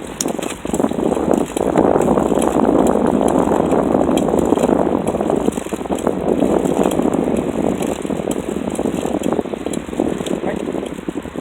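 Bicycle rattling and clicking as it rolls along, over a steady rushing noise.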